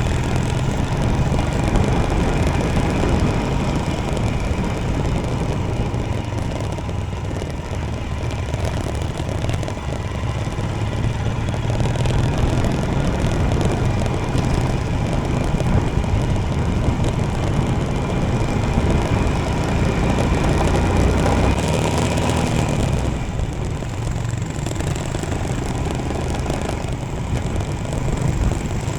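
Royal Enfield Himalayan motorcycle's single-cylinder engine running steadily while riding, under a constant rush of road and wind noise.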